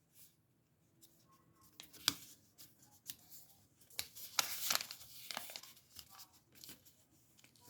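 A square sheet of paper being flipped and folded by hand: faint rustling and crinkling with a few sharp crisp snaps as creases are pressed, the sharpest about two seconds in and a busier stretch around four to five seconds.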